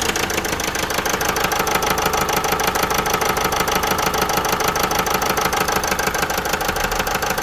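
Vauxhall Meriva 1.6 CDTI four-cylinder diesel engine running steadily at idle, with the misfire that goes with its P0016 crankshaft–intake camshaft correlation fault.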